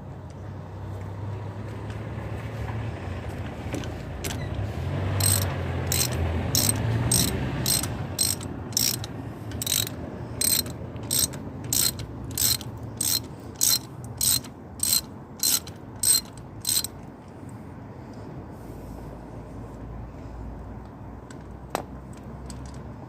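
Hand ratchet worked in short, even strokes, its pawl clicking in bursts about two a second for some twelve seconds, as bolts are backed out of a motorcycle engine cover.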